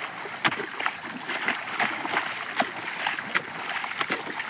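Water splashing and sloshing, with sharp irregular slaps over a steady rush of running water.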